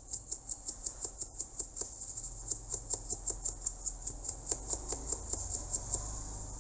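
A fast, even run of light clicks or scratches, about six a second, over a low hum.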